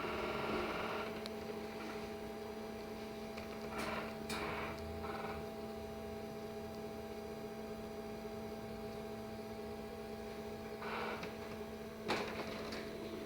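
Steady electrical hum inside a LiAZ-6274 electric bus, with a few brief noises about four and eleven seconds in and a sharp click near the end.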